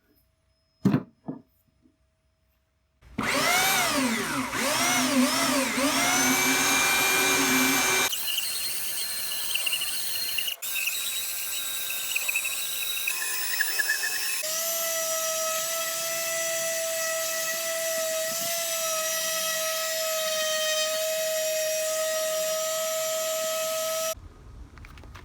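Electric power sander running on pine wood. For the first few seconds its pitch dips and recovers about every two-thirds of a second as it is pressed into the work, then it runs at a steady pitch and cuts off near the end. Two short knocks come about a second in, before it starts.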